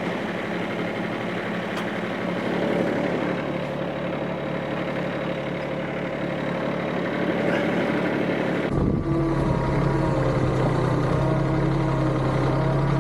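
Subcompact tractor engine running steadily. About nine seconds in, the sound changes suddenly to a stronger, deeper hum with slightly wavering pitch.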